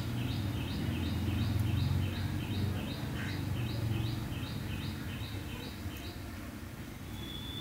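A bird calling a quick series of short, identical chirps, about three a second, that stops about six seconds in. A steady low rumble runs underneath.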